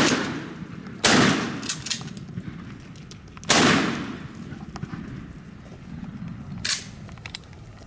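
Shotgun blasts fired at turkeys: two loud shots about two and a half seconds apart, each trailing off in a rolling echo, with a fainter sharp crack near the end.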